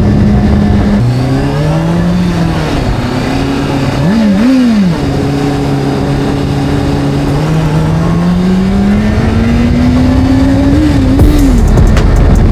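Motorcycle engine sound from a video game, revving up and down. It holds steady at first, drops and climbs again, gives two quick blips of revs near the middle, rises slowly, then blips twice more before settling.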